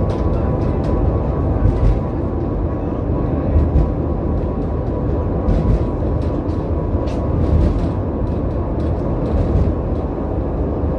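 Tram running along the track: a steady low rumble with a faint steady whine, broken by scattered clicks and knocks from the wheels on the rails.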